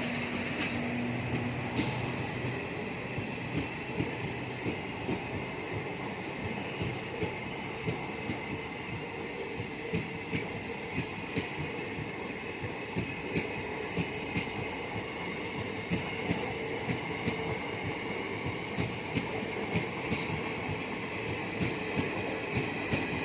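A train running along the track, its wheels clicking irregularly several times a second over the rails, with a steady whine underneath.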